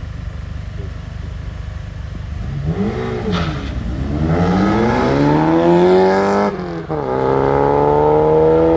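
Volkswagen Polo Mk2 engine idling, blipped once about three seconds in, then revving hard as the car launches and accelerates away. The pitch climbs steadily, falls sharply at one upshift about two-thirds of the way through, and climbs again.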